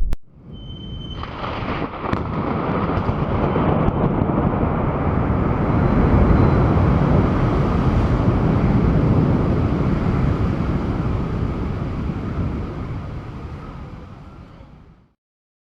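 Thunder from a close lightning strike: a sharp crack about two seconds in, then a long rolling rumble that swells and slowly dies away over more than ten seconds before cutting off.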